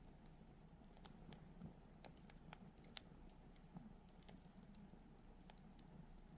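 Wood campfire crackling: faint, irregular small pops and snaps over a low, steady background rush.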